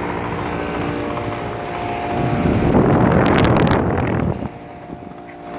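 Goodman central air conditioner condenser running: a steady compressor hum with the whir of the condenser fan. About halfway a louder rush of air hits the microphone for nearly two seconds, then the sound drops lower briefly before the hum returns.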